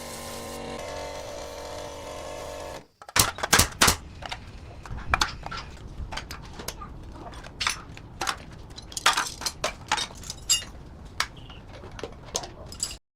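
A motor-driven machine running with a steady hum that cuts off about three seconds in. A string of irregular sharp knocks and clicks follows, the loudest cluster just after the cutoff.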